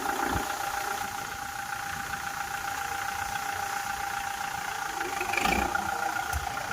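Kubota MU4501 tractor's diesel engine running steadily at idle, with a brief knock about five and a half seconds in.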